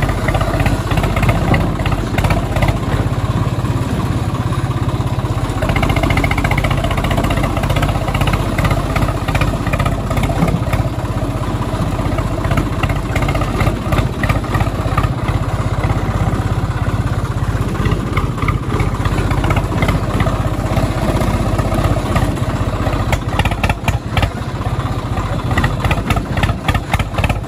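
An engine running steadily, with a rapid clatter, its pitch shifting slightly about six seconds in.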